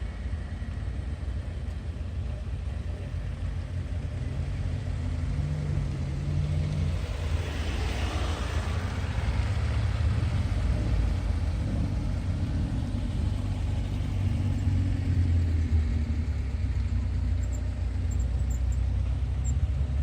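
Low steady rumble of car engines running, with a rushing swell that builds and fades about eight seconds in.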